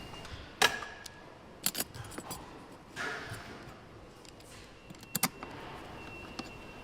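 Sharp metallic clinks and knocks of parts and hand tools being handled during car assembly work, spread irregularly with a close pair about five seconds in, over a faint steady high-pitched tone from factory equipment.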